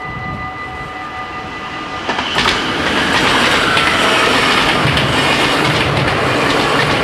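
Level-crossing bells ringing steadily, then about two seconds in an NS VIRM double-deck electric train arrives and passes close by: loud wheel and track noise that drowns out the bells.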